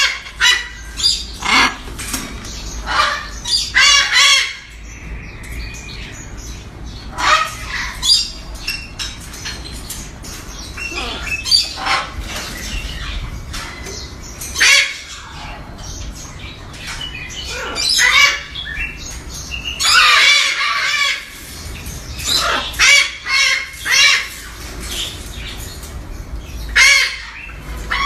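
A macaw squawking again and again, loud harsh calls with short pauses between them, one longer call about two-thirds of the way through.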